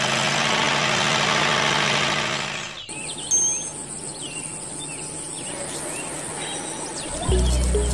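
A loud, steady rushing noise cuts off abruptly about three seconds in. Quiet outdoor ambience follows with birds chirping. Music with deep bass notes comes in near the end.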